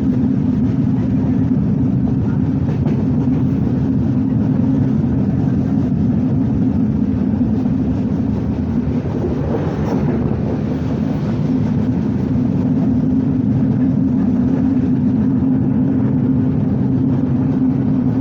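Steady low rumble of the Bonolota Express intercity passenger train running at speed, heard from inside the carriage, with a brief swell of hiss about halfway through.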